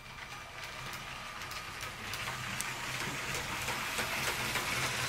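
Remote-controlled Lego City cargo train running on plastic track: its small electric motor whirring and its wheels rolling with faint clicks over the track joints, growing louder about two seconds in.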